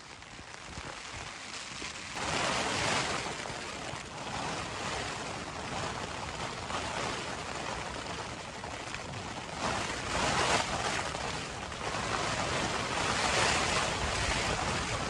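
Gale-force wind and rain suddenly sweeping onto a Vango Heddon 100 solo tent, heard from inside: a rushing that jumps up about two seconds in and surges in gusts, strongest near the middle and again near the end.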